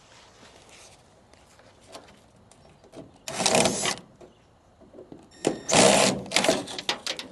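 Cordless drill backing out a trim screw, run in two short bursts, the first about three seconds in and a longer one near the end.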